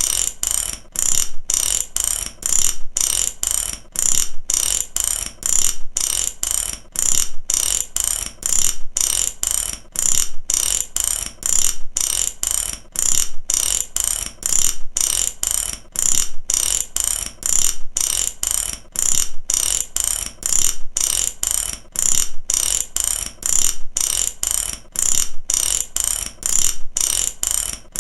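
Mechanic's ratchet wrench clicking, in evenly repeated bursts of rapid clicks with brief pauses between strokes.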